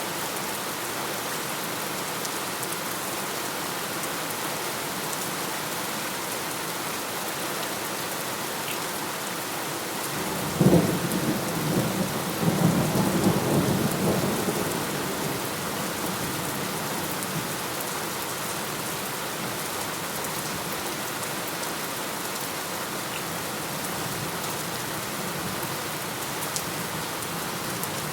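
Steady rain falling throughout. About ten seconds in, a sudden crack of thunder, followed by a low rumble that dies away over the next few seconds.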